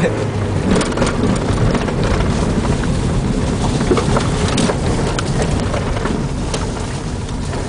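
Honda Civic hatchback driving on a dirt road: loud, steady tyre and road noise with many sharp clicks of loose stones and grit striking the car.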